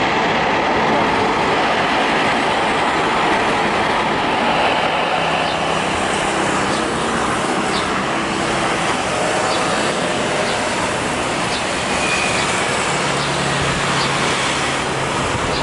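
A steady, loud roar of outdoor traffic noise that does not rise or fall.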